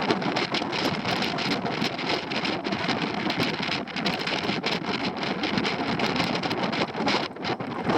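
Wind buffeting the microphone in rough bursts and crackles over a steady rushing noise.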